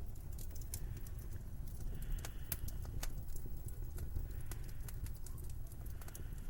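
Wood fire crackling in a fireplace: many sharp, irregular pops and snaps over a low steady rumble.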